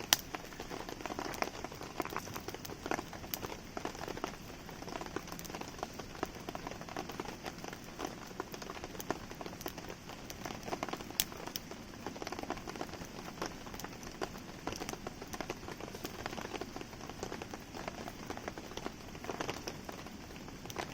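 Steady rainfall pattering, mixed with a wood campfire crackling and ticking, with a few sharp pops: one right at the start and one about halfway through.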